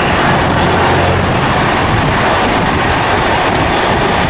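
Train running past at speed: a loud, steady rush of wheel and rail noise, with a low hum in the first two seconds or so.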